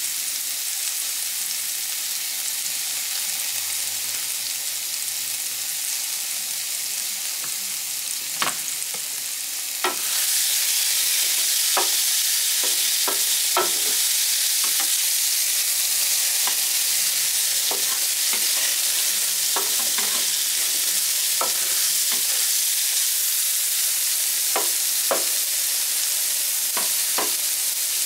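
Shrimp, mushrooms, onions and green pepper sizzling in butter on a Blackstone E-Series electric griddle. The sizzle gets louder about ten seconds in. From there, light taps and scrapes of a plastic spatula turning the food are heard on the nonstick surface.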